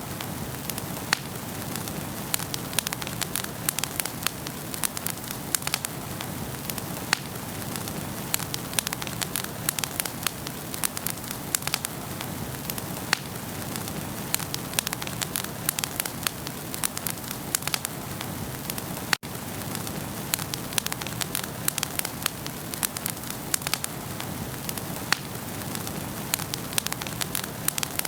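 Wood fire burning in a fireplace, crackling steadily with dense, irregular pops and snaps over a soft rush of flame. A split-second gap comes about two-thirds of the way through.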